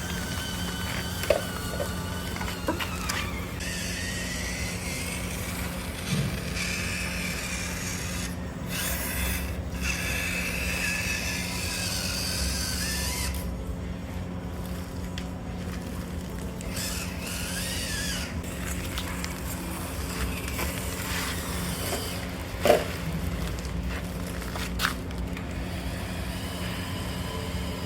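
Mini RC crawler trucks' small electric motors and gearboxes whining as they drive, the pitch shifting with throttle, with a few sharp knocks, the loudest near the end.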